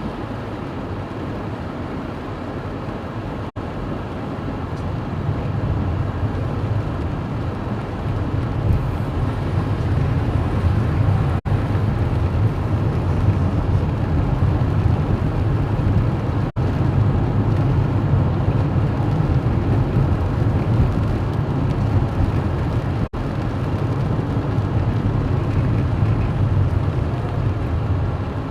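Strong wind buffeting the microphone in a storm: a steady low rumbling noise that swells a few seconds in, broken by a few brief dropouts.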